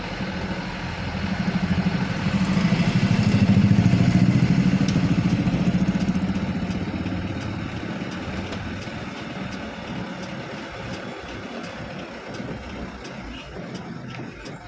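A motor vehicle's engine running, growing louder to a peak about four seconds in and then slowly fading, as a vehicle passes close by. Faint, regular ticking runs through the second half.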